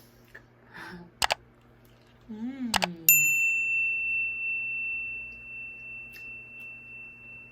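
A single bright, bell-like ding about three seconds in that rings on and fades slowly over about four seconds. Before it there are a couple of sharp clicks and a short hummed sound.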